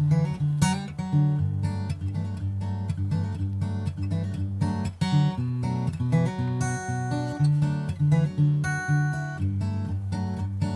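Background music: an acoustic guitar arrangement, plucked and strummed chords at a steady pace.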